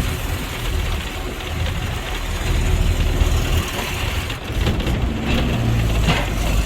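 Motor vehicle on the move, a steady low rumble of engine and road noise.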